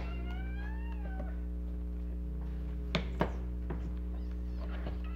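A single drawn-out meow, rising and then falling in pitch for about a second, over a steady low hum. Two sharp knocks follow about three seconds in.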